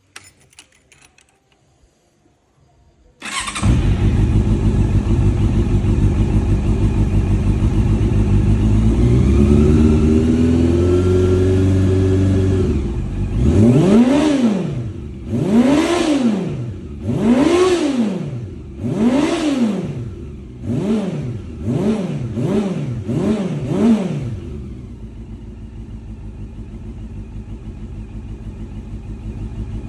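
Honda CB400 Super Four Spec III (NC39) inline-four with a WRS aftermarket exhaust, starting about three seconds in and running at a fast idle that climbs a little in pitch. It then takes eight throttle blips, four long ones followed by four quicker, shorter ones, and drops to a lower, steady idle.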